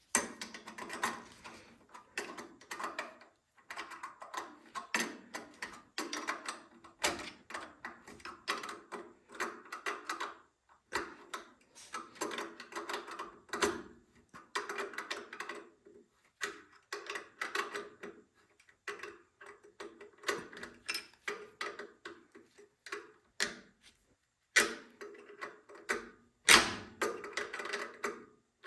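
Ratchet wrench clicking in short, quick runs with brief pauses, as a nut is tightened onto a bolt on a small engine.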